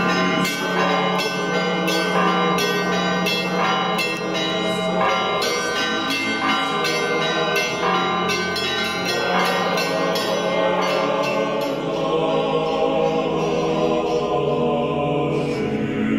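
Church bells ringing, a steady run of strikes at roughly two a second with overlapping ringing tones. After about ten seconds the strikes thin out into a sustained ringing wash.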